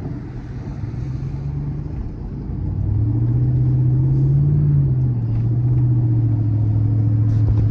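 Vehicle engine and road noise heard from inside the cab. About two and a half seconds in, the engine grows louder as the vehicle pulls away, its pitch rising and then dropping back a little near five seconds.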